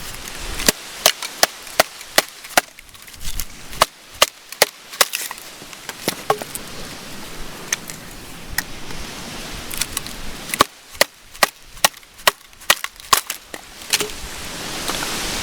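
Sharp, irregular wooden snaps and cracks, many in a row at uneven spacing, over a steady hiss.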